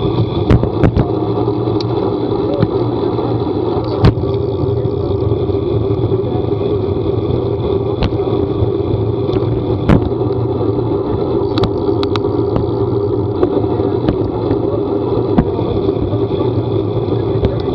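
A vehicle engine running steadily with road and wind noise, broken by scattered sharp clicks or knocks.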